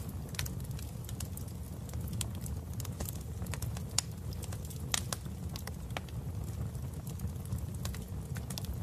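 Wood fire crackling in a fireplace: irregular sharp pops and snaps over a steady low rumble, with the loudest pops about four and five seconds in.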